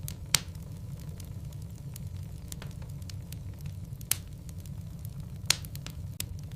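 Logs burning in a fireplace, crackling, with three sharp pops standing out among fainter ticks over a steady low rumble of the fire.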